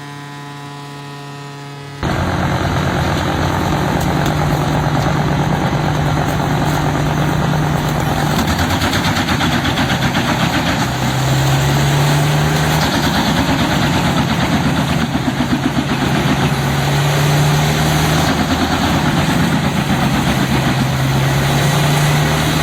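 A steady hum for about two seconds, then a large wood chipper's diesel engine cuts in loud and runs on steadily, its low note dipping and coming back up a few times.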